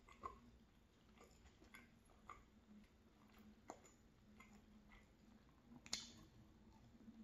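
Quiet chewing of a crisp flatbread with egg filling, with faint scattered mouth clicks. A sharper crunch comes from a fresh bite about six seconds in.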